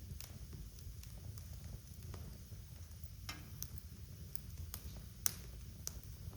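Wood fire burning in a fireplace: scattered crackles and pops over a steady low rumble, with one sharper, louder pop about five seconds in.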